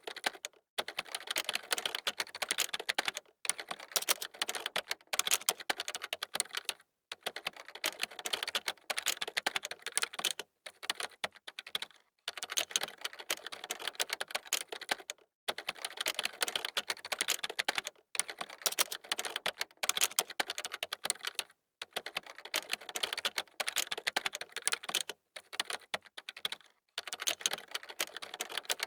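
Fast typing on a computer keyboard: dense runs of key clicks, broken by short pauses every second or few.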